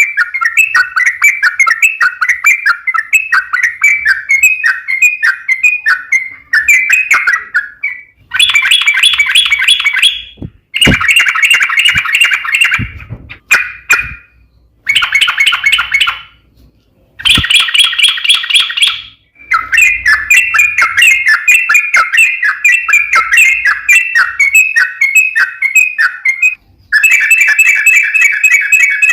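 Yellow-vented bulbul (trucuk) song: long runs of rapid, bubbling chirps, each run lasting from about two to seven seconds and broken by short pauses.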